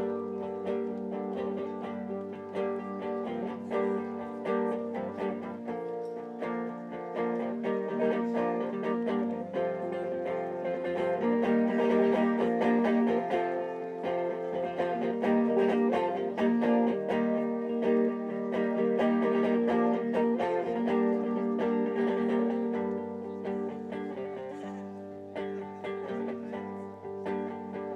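Live acoustic guitar music: an instrumental passage of a folk song, plucked and strummed, over held low bass notes that change every few seconds.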